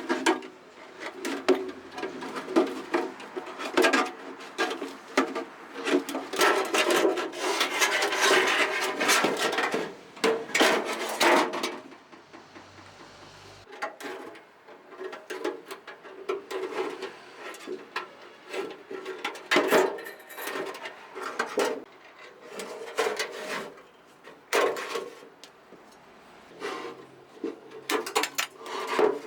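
Hand-tool work on the stove's parts: irregular scraping and rubbing with scattered knocks, densest and loudest about six to ten seconds in, then in short separate bursts.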